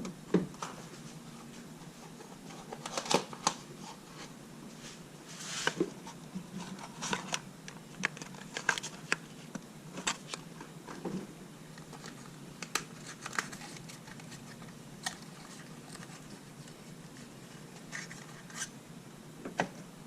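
Scattered light clicks and scrapes at irregular intervals: hand tools and parts being handled during engine work.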